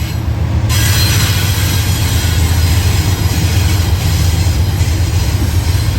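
Diesel freight train passing close: a steady low engine rumble, joined about a second in by a loud, steady rushing noise from the wheels on the rails.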